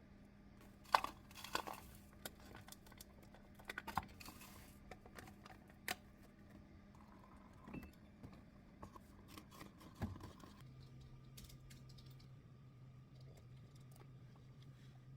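Scattered light clicks and taps with a few short rustles, over a faint steady low hum whose pitch drops about two-thirds of the way in.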